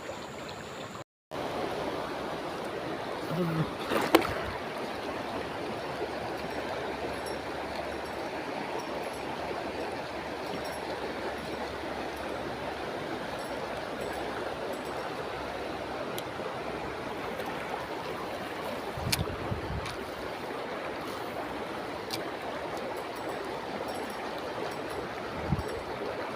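Steady rushing of flowing water, with a few brief knocks at scattered moments.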